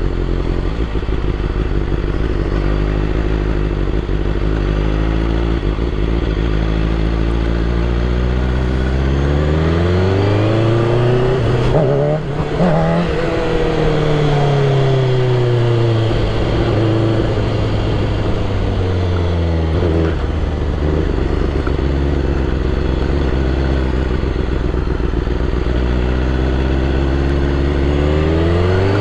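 BMW S1000RR superbike's inline-four engine running at low revs, then revved up to a peak about twelve seconds in and let back down, with smaller throttle rises around twenty seconds and near the end, as the rider opens the throttle trying to lift the front wheel.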